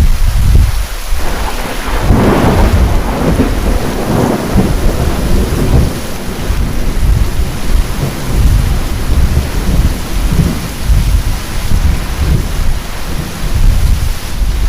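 Heavy rain with a loud thunderclap that breaks in sharply at the start, cracks hardest about two seconds in, then keeps rolling as a long low rumble.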